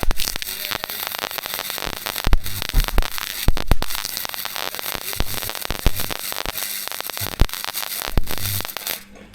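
Flux-core wire-feed welder crackling and spitting as a bead is run on the exhaust pipe, stopping near the end.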